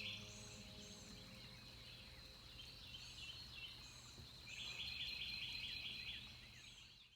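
Wild birds singing. One bird gives a fast trilled phrase about four and a half seconds in, and others repeat short high down-slurred chirps, over a steady thin high tone. The sound fades out just before the end.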